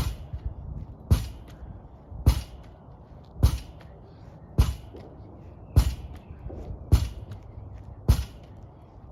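Lacrosse wall ball drill: a rubber lacrosse ball thrown against a wall and caught in a stick, with a sharp smack about every second in a steady rhythm.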